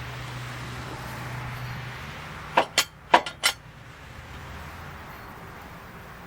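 Four quick, sharp metallic clinks, all within about a second near the middle, from steel jacking gear being handled, over a low steady hum.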